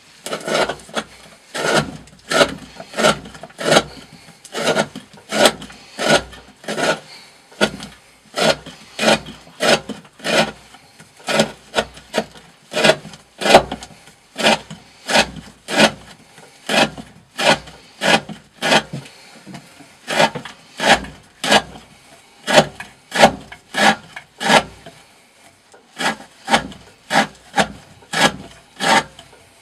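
A D2 steel knife blade slicing through thick 20 mm rope against a wooden board, over and over, about two cuts a second. These are the repeated cuts of an edge-retention test.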